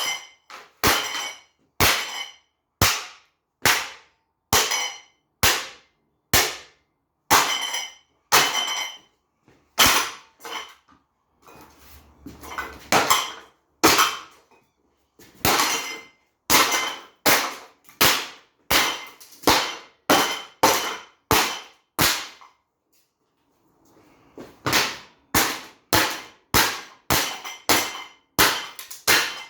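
A cheap SMC-Wattmaster ceiling fan being smashed: a long run of hard, separate blows, mostly about one a second, many of them ringing metallically. There is a break of about two seconds before the blows start again.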